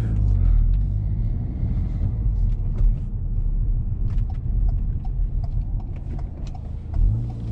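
Inside the cabin, the Ford Focus ST's 2.3-litre turbocharged four-cylinder engine runs under a steady low rumble of engine and road noise as the car drives off. The engine note grows louder near the end as it pulls harder.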